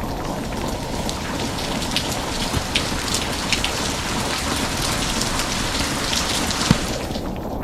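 Steady rain falling, a dense hiss with sharper drop hits ticking through it every so often.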